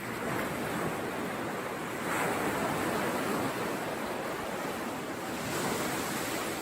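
Sea surf washing in: a steady rush of waves that swells about two seconds in and again near the end.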